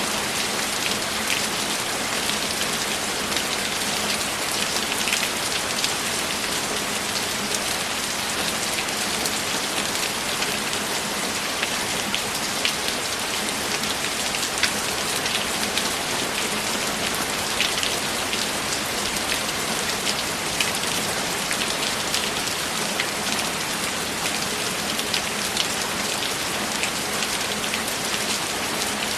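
Steady rain falling, an even hiss with many scattered droplet ticks on a surface.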